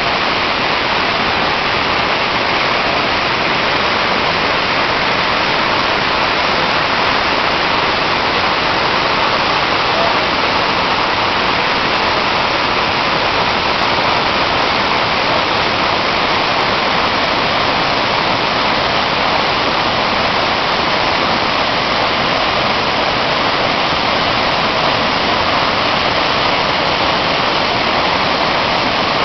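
Large 68-metre waterfall, a steady loud rush of falling water with no breaks or changes.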